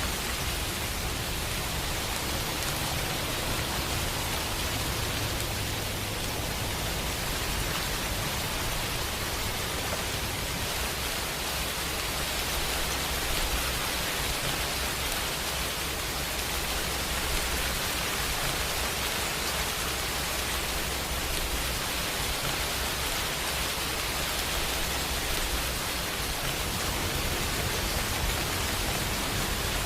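Steady rain falling: an even, unbroken hiss of drops with a soft low rumble beneath.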